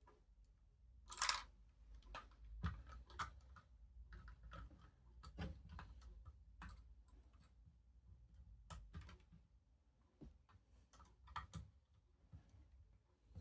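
Plastic Lego parts being handled: scattered light clicks and taps at irregular intervals, with one louder rustling scrape about a second in.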